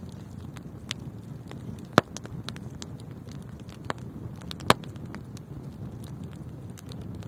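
Fireplace fire burning, a steady low rush of flames under scattered small crackles, with two louder pops about two seconds in and just before five seconds.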